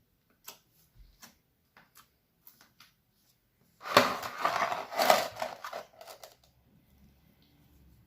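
Slime being squished in the hands: a few scattered small clicks, then, about four seconds in, a dense burst of crackling pops lasting about two seconds.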